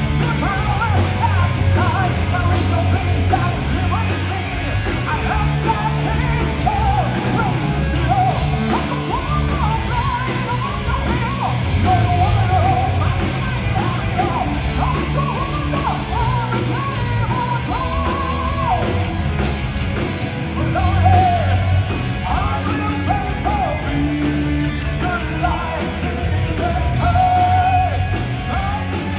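Heavy metal band playing, with a high singing voice carrying the melody over the band.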